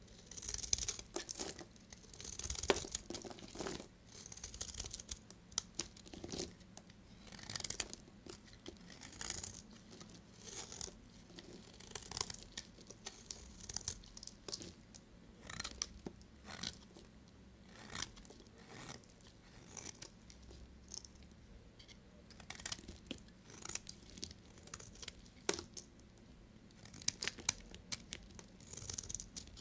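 A knife cutting bar soap: repeated crisp scraping, crunching strokes, roughly one every second or two, with sharp clicks among them.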